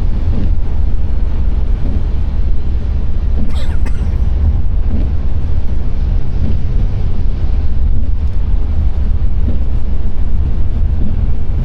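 Car driving on a wet road in the rain: a steady low road and engine rumble with the hiss of tyres on wet pavement.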